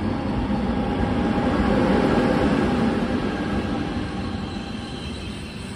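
Locomotive-hauled passenger train running past along the platform, the rumble of the locomotive and wheels on the rails swelling to its loudest about two seconds in and then easing as the coaches roll by. A faint high-pitched whine comes in near the end.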